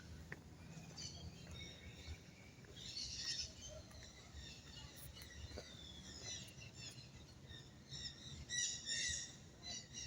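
Small birds chirping and twittering, many short high calls overlapping, busiest and loudest about eight to nine seconds in.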